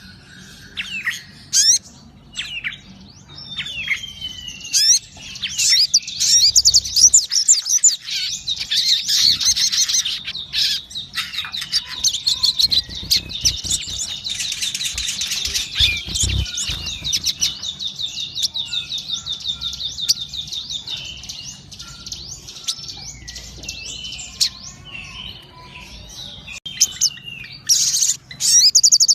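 Sogon songbird singing energetically in full song, with rapid high chirps and long fast trilling runs, densest in the middle of the stretch.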